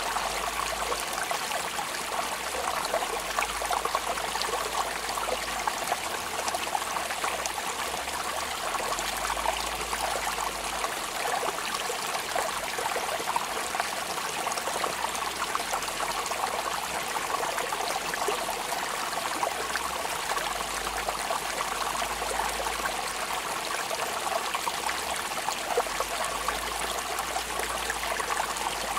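Steady rain falling, a dense, even hiss of countless drops with no change in strength.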